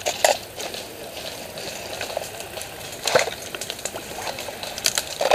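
Rustling noise with scattered sharp clicks, the strongest about a third of a second in, a little after three seconds and near the end.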